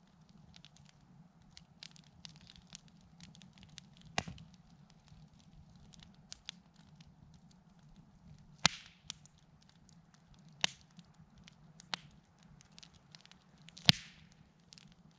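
Wood campfire crackling: scattered small ticks with five louder pops, the loudest near the end, over a faint steady low hum.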